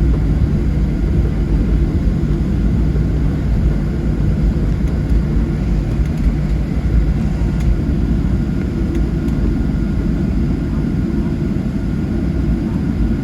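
Boeing 737-700 airliner heard from inside the cabin near the front: a steady low rumble of the jet engines and airflow, with a few faint steady tones above it.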